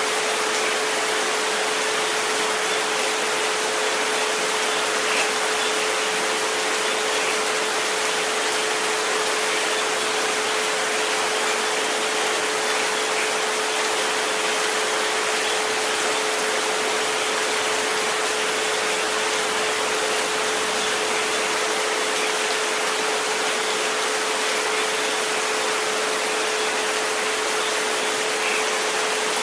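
Steady rain hiss with a constant pure 432 Hz tone held underneath it.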